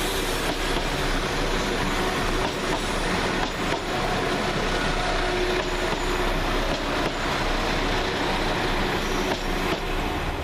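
Two coupled Class 172 diesel multiple units moving through the station: diesel engines running and wheels on rail, a steady noise with a few faint clicks.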